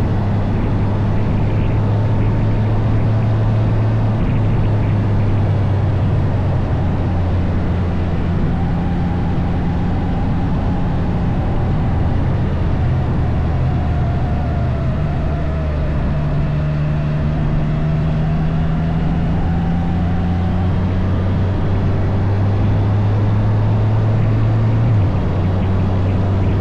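Can-Am Spyder three-wheeled motorcycle's engine running under way, with a steady rush of wind and road noise. The engine note steps up and down in pitch a few times as the speed changes through the curves.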